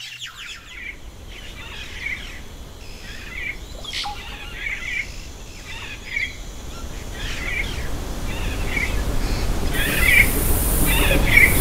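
Jungle ambience: a bird calling in short chirps, about once a second, over a steady rush of noise that grows gradually louder.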